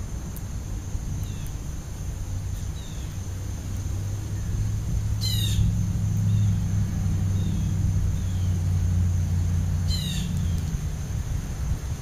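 Wild birds calling: several faint short chirps and two harsh, raspy calls about five and ten seconds in. Under them runs a steady low rumble that swells in the middle.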